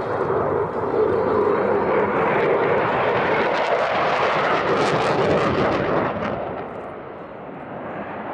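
Jet noise from a Eurofighter Typhoon's two EJ200 turbofan engines during a display pass: a loud, steady sound that dies down about six seconds in and builds again near the end.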